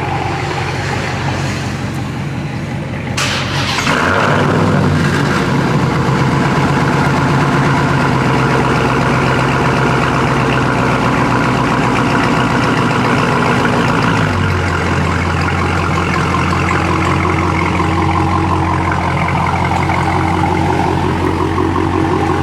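A car engine close by gets louder about three to four seconds in and then runs steadily, its low note shifting about two-thirds of the way through.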